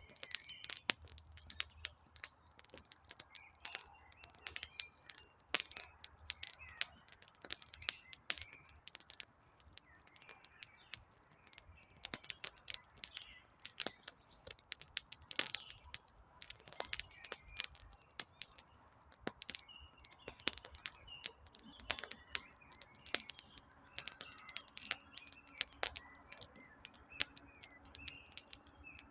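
Wood campfire crackling with frequent sharp pops, over birds chirping in the background.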